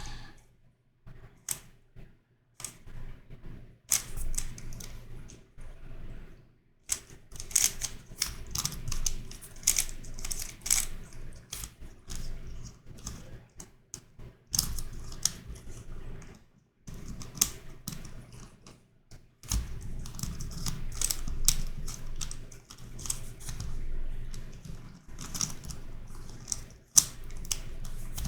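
Plastic twisty puzzle (YuXin Corner Helicopter 2x2) being turned and twisted by hand: rapid irregular clicking and clacking of pieces, with brief pauses between runs of moves.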